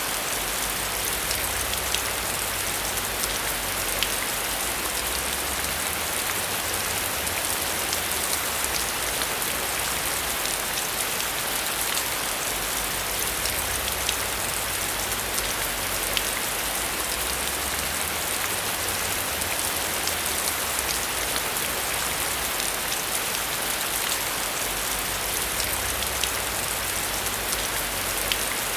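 Steady heavy rain: a constant hiss with many scattered sharp drop ticks and a low rumble underneath.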